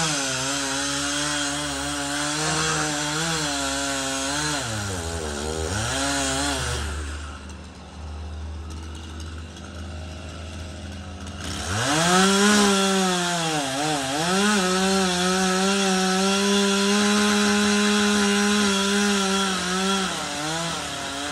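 Gas chainsaw at full throttle cutting dead spruce wood for about six seconds. It drops to idle for several seconds, then revs back up and cuts again until it eases off near the end.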